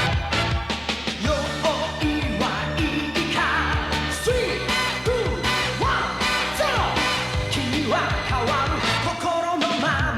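Rock-style theme song with singing over a steady beat, the cartoon's closing music.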